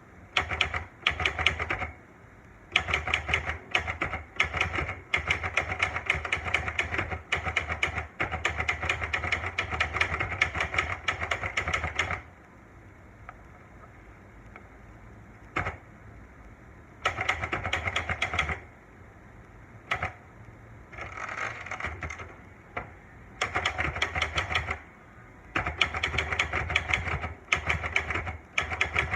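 Olivetti Lettera manual portable typewriter being typed on: quick runs of key strikes in several bursts, with pauses of a few seconds between them.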